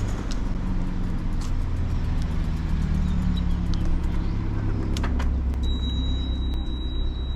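Steady low rumble of a car running, with a couple of light clicks about five seconds in.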